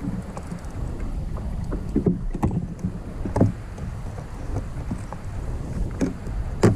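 Kayak out on the sea over a steady low rumble of water and wind, with a few sharp knocks and splashes of the paddle, the loudest near the end.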